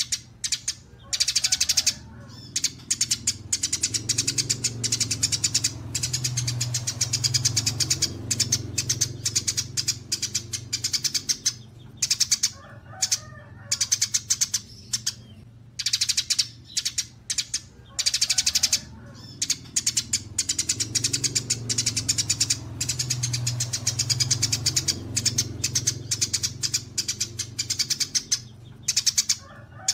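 Recorded songbird calls from a bird-tutoring track mixing kapas tembak, cililin and fighting tree sparrow: rapid trains of high chirps in bursts with short gaps, over a steady low hum. The sequence repeats about every 17 seconds, so the track is looped.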